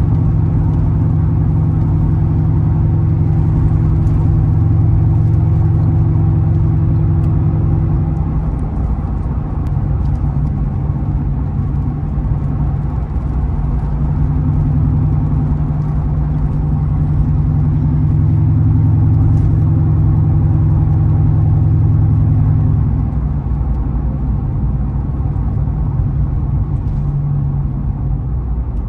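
Interior drive noise of a Ford Crown Victoria Police Interceptor with its 4.6-litre V8: a steady low engine hum over road noise, heard from inside the cabin. The hum changes pitch twice.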